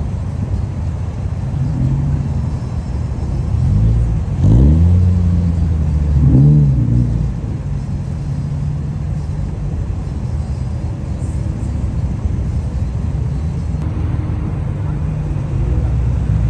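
Car engine idling with a low, steady note, revved in two short throttle blips about four and six seconds in, the pitch rising and falling back each time.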